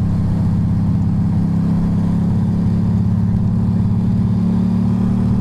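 Ducati motorcycle engine running at low, steady revs, its deep pitch holding even throughout.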